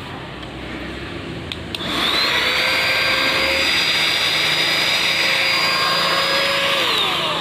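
Portable mini 2-in-1 handheld vacuum cleaner switched on with a click about two seconds in. Its motor spins up with a rising whine and runs steadily for about five seconds, then is switched off and winds down with a falling whine near the end.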